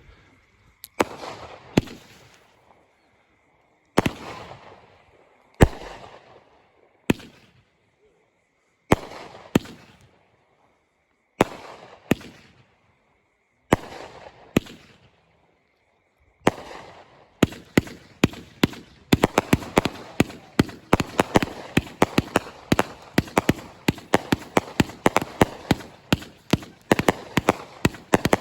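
Raccoon 'Birds of Paradise' 500g firework cake firing. At first single shots go off about every one to two seconds, each with a trailing crackle. About sixteen seconds in it breaks into a rapid, continuous barrage of pops that runs to the end.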